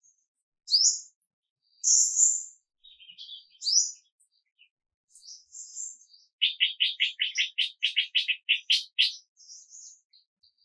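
Songbirds chirping and singing in short high calls, with a fast run of evenly spaced notes, about six a second, starting about six seconds in and lasting some two and a half seconds.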